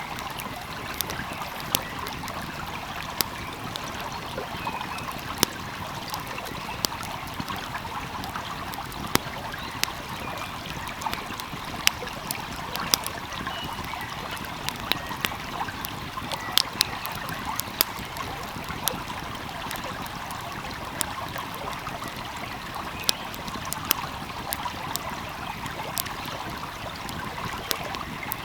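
Wood fire crackling with frequent irregular sharp pops over the steady rush of a flowing stream.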